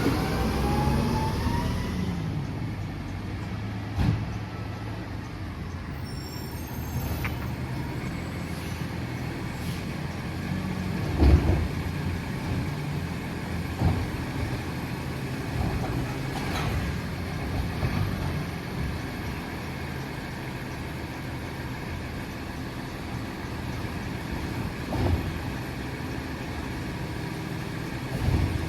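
Freightliner M2 garbage truck running, its engine rising in pitch over the first two seconds and then holding steady. Several sharp clunks stand out over the engine, the loudest about eleven seconds in.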